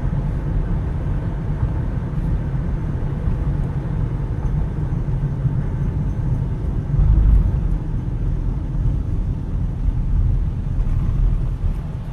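Steady low rumble of road vehicles, swelling louder for a moment about seven seconds in.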